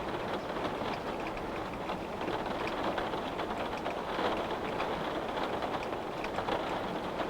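Rain falling on a window pane: a steady hiss of rainfall with many small drop ticks scattered through it.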